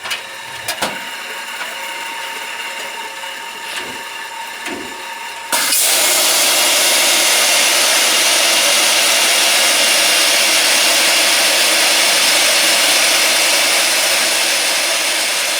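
A machine hum with a few short knocks, then about five and a half seconds in a loud hiss starts suddenly and carries on, easing slightly near the end: the Firetrace automatic CO2 system discharging carbon dioxide gas into the clothes dryer to put out the fire.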